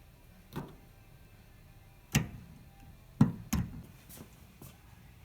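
Several separate sharp clicks and knocks of tools and PEX fittings being handled, the loudest near the middle, as a crimp ring is set on the pipe.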